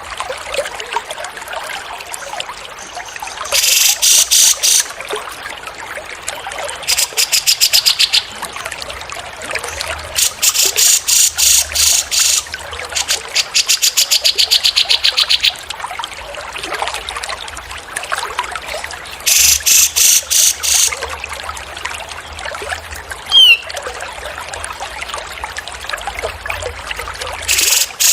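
Recorded songbird calls: loud, rapid high trills in bursts of one to two seconds, coming about six times, with a single falling whistled note partway through, over a steady trickle of running water.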